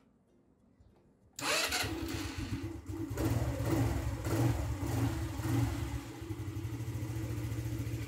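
SYM Jet Power 125 scooter's single-cylinder four-stroke engine starting on the electric starter about a second and a half in, revving a few times, then settling to a steady idle. The scooter now starts after its corroded wiring harness was repaired.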